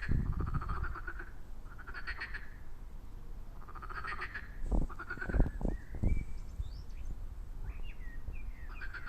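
Pond frogs croaking: pulsed, rattling calls repeated about every two seconds. A few low thumps come around the middle.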